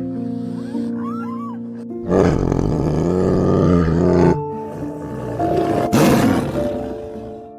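A tiger roars over soft piano music: one long, loud roar about two seconds in, then a shorter one about six seconds in.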